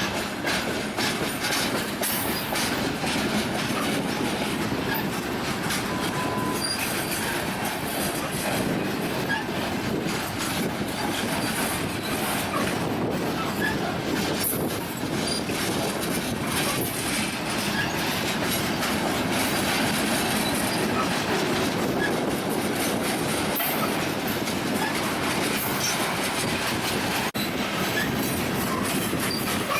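Union Pacific freight train cars rolling past: a steady rush of steel wheels on rail, with brief high wheel squeals scattered through it.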